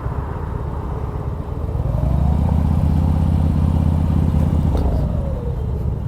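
Motorcycle engine running, growing louder about two seconds in and easing off near the end.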